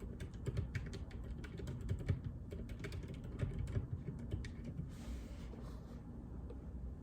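Typing on a JJK84 mechanical keyboard with Outemu Silent Peach linear switches: a quick run of dampened keystrokes that thins out to a few stray presses about two-thirds of the way through.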